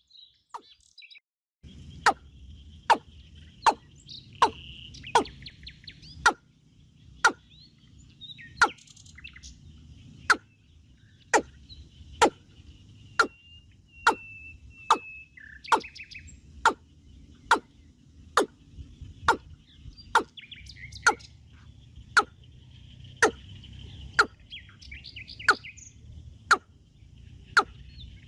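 Birds chirping and calling, over a sharp knock or click that repeats evenly a little more than once a second and is the loudest sound.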